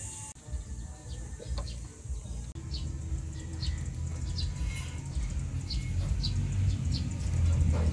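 Short, high bird chirps repeated every half second or so, over a steady low rumble.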